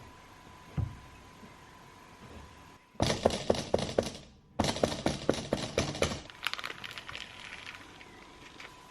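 Rapid runs of sharp knocks and clatters, two dense bursts a little apart, then fainter scattered clicks that taper off, after a single knock near the start.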